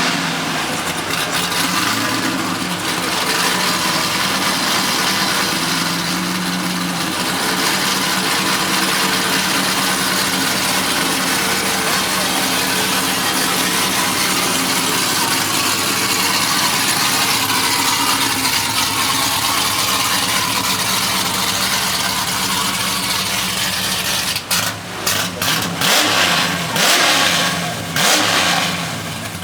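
Car engine running loud and revving hard, steady for most of the stretch, then choppy with sudden drops and surges near the end.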